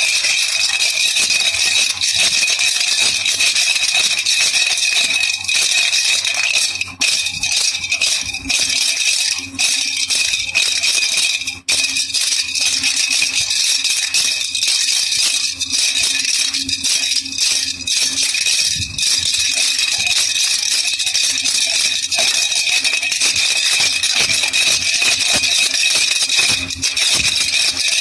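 A baby rattle (jhunjhuna) shaken continuously, giving a dense, steady stream of rattling with a couple of brief breaks.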